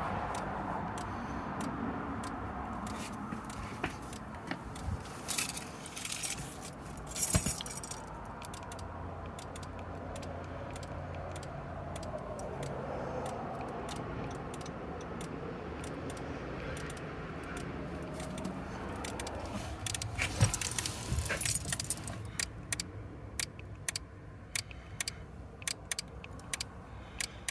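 A 9th-generation Honda Accord clicking over and over on its own, settling into about two clicks a second near the end, over a low steady hum. The owner likens it to the click the locks make when the key fob's lock/unlock buttons are pressed, and it came on when the keyless entry stopped working.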